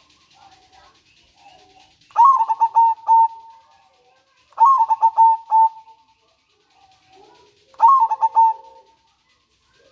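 Zebra dove cooing: three bouts of rapid staccato coos, each about a second long and ending on a drawn-out note, a couple of seconds apart.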